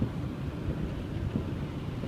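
Heavy rain falling on a car, heard from inside the cabin as a steady low rumble with scattered faint taps.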